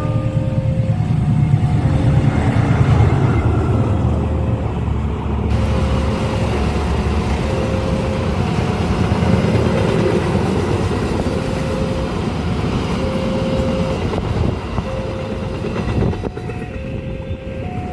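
A train passing fast over a level crossing, a loud rumble of wheels and carriages that thins out near the end. The crossing's warning alarm sounds throughout, a repeating two-note tone alternating between a lower and a higher note.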